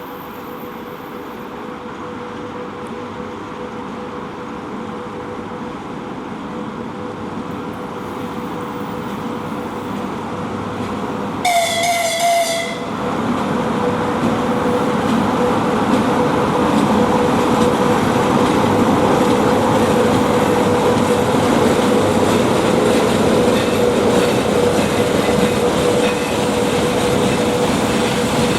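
VL80T twin-section electric locomotive hauling a freight train through a station, growing louder as it approaches. It gives one short horn blast about twelve seconds in, then the locomotive and wagons roll past with a loud, steady rumble.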